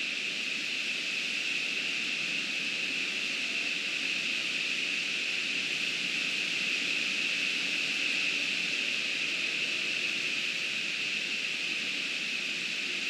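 Steady rushing hiss of heavy rain and running creek water, even and unbroken throughout.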